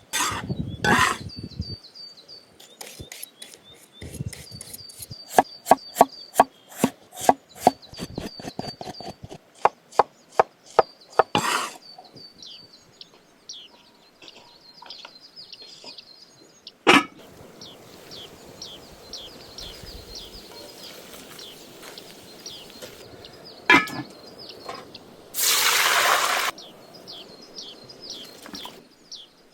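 Chopping on a wooden board: a run of sharp strokes, about one or two a second, then a few single knocks and a loud hiss about a second long near the end. Birds sing throughout.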